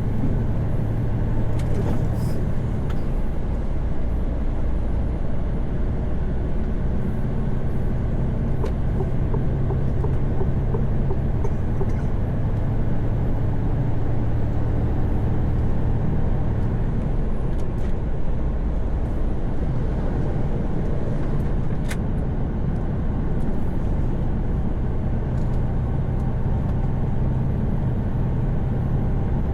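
Mercedes-Benz Actros truck cruising at highway speed, heard from inside the cab: a steady low diesel engine drone mixed with tyre and road noise.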